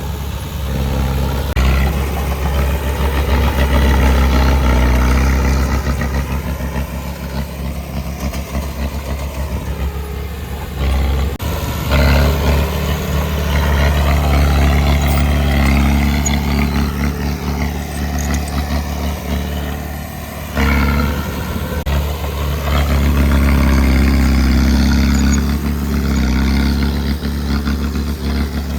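Heavy diesel engine of earthmoving machinery running under varying load, its low hum rising and falling several times, with sudden shifts in the sound about a third and two thirds of the way through.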